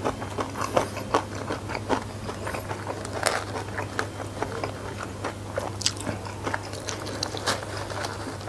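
Close-miked chewing and crunching of food, with many irregular crisp clicks over a steady low hum. In the second half, a paddle scoops rice from a bamboo basket.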